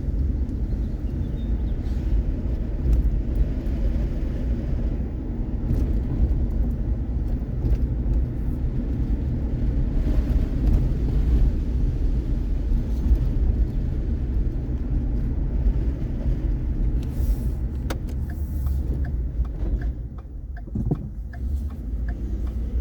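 Vehicle engine and road noise heard from inside the cabin while driving: a steady low rumble that eases briefly about two-thirds of the way through.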